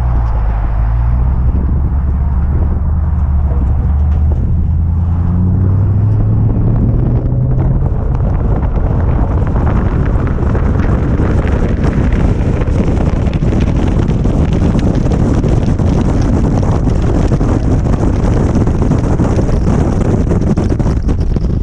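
2018 Toyota Tundra's V8 running through a Flowmaster Outlaw dual exhaust: a deep exhaust rumble that climbs in pitch about five to seven seconds in as the truck accelerates, then gives way to a loud, steady rushing noise.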